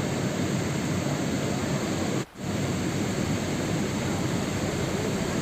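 Steady rain sound used as sleep noise: an even, unbroken hiss with a momentary drop in level a little over two seconds in.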